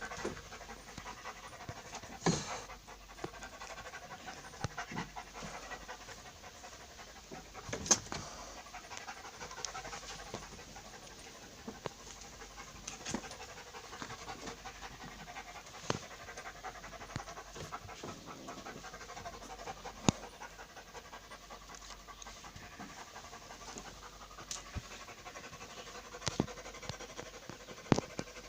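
A pet panting with fast, steady breaths, with a few sharp clicks scattered through it.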